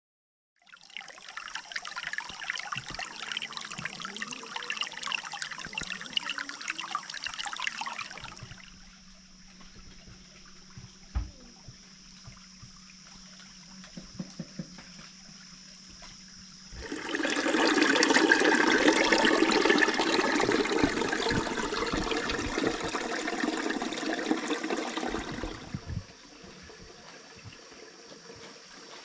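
Steady rushing water in two stretches, the second louder, each starting and stopping abruptly. Quieter gaps between them carry a steady high-pitched hum.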